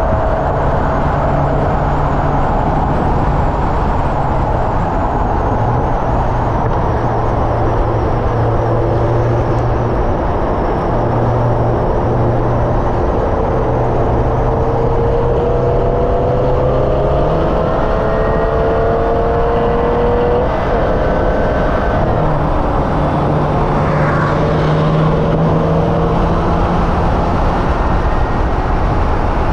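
Hyundai Elantra N's turbocharged four-cylinder engine driven hard on a race track: its pitch climbs steadily for several seconds and drops away suddenly about twenty seconds in, over constant road and wind noise.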